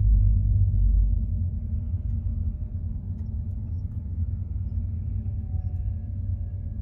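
Car driving along a road: a steady low rumble of engine and tyre noise, louder in the first second or so.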